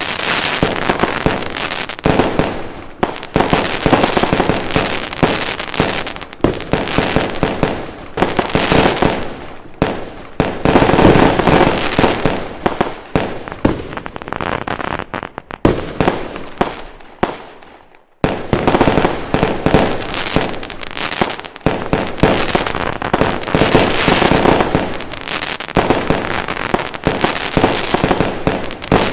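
Fireworks going off in rapid, near-continuous bangs and crackling. They thin out and fade for a few seconds past the middle, then start again abruptly.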